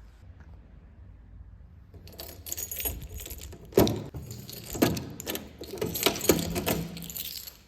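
Small metal objects jangling and clinking, starting about two seconds in, with three louder knocks among them.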